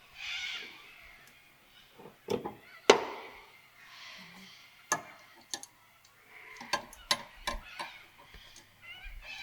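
Metal hand tools and car parts clinking and knocking together in a string of sharp, irregular clanks, the loudest about three seconds in and a quick cluster past the middle.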